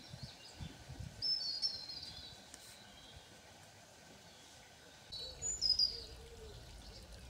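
Wild birds chirping over a steady background hiss, with two short runs of high chirps, one about a second in and another about five seconds in.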